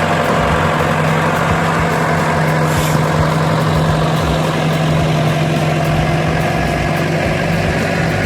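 Log skidder's diesel engine running at steady revs with a constant low hum as it pulls logs through deep mud.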